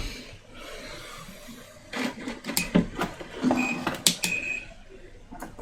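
Small clicks and knocks of tools being handled on a repair bench, with two short high electronic beeps about three and a half and four seconds in.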